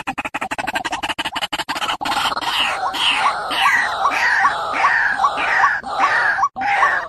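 White-breasted waterhen calls played as a bird-lure recording. A fast run of short pulses lasts about two seconds, then gives way to a steady series of repeated calls, about three a second.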